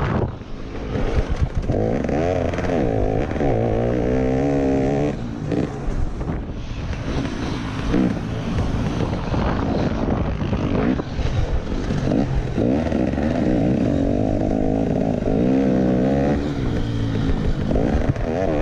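Motocross bike engine revving up and down as the rider accelerates, shifts and backs off over the track, heard from a camera on the bike.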